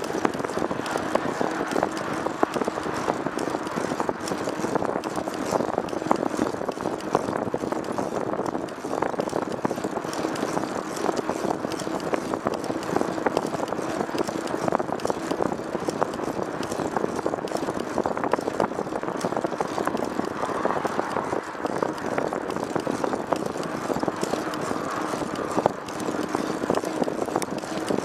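Steady running noise of a moving vehicle on a ride, with a constant low hum and many small rattles and clicks.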